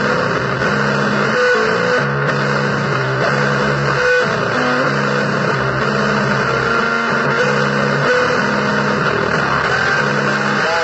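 Noisy blues played on guitar: a repeating pattern of short low notes and occasional higher ones over a steady wash of hissing noise.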